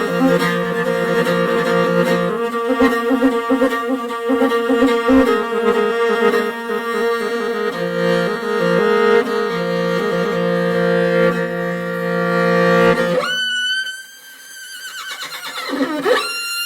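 Bowed string music holding sustained chords, which cuts off about 13 seconds in. A high whinny then rises and falls, and a second whinny starts near the end.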